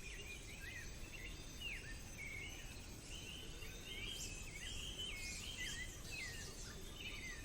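Forest ambience of birds calling: many short, high chirps and whistles, some rising and some falling, repeating throughout over a faint steady low background rumble.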